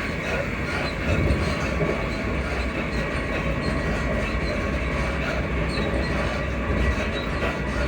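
Running noise inside a Class 334 electric multiple unit on the move: a steady low rumble from wheels and track, with faint high squeaking from the coach suspension.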